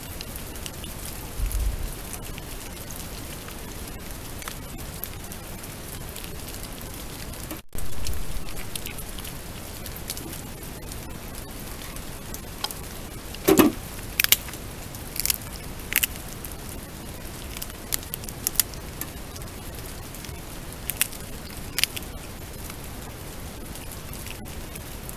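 Steady rain hiss, with scattered sharp ticks and taps that come thickest in the second half.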